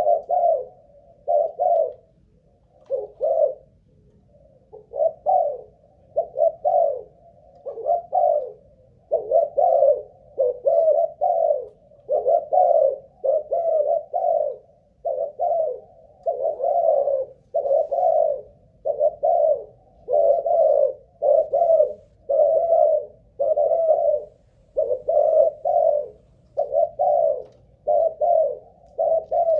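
Spotted dove cooing over and over, a long unbroken string of low coos at about one a second, with a short pause a few seconds in. It is the sustained cooing bout that keepers of Malaysian-strain contest doves test for stamina.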